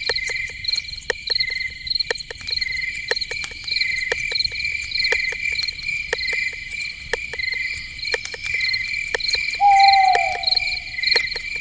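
Night forest ambience: crickets chirping steadily in rapid pulses, with frequent sharp clicks. About ten seconds in, a short call falls in pitch and briefly stands out above the chirping.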